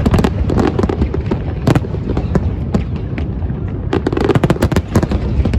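Fireworks display: a rapid, unbroken string of bangs and crackles over a steady low rumble.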